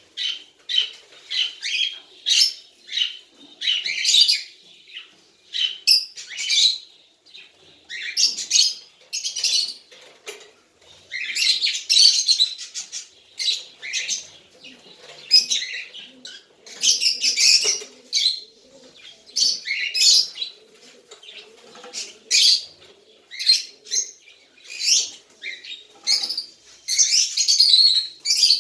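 A young cockatiel calling over and over in short, high-pitched chirps, one to three a second and sometimes bunched together.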